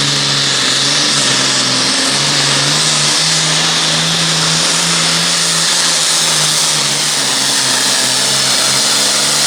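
Diesel pulling tractor at full throttle, dragging the weight-transfer sled down the track. A loud, steady engine note steps slightly higher about three seconds in, under a strong high hiss.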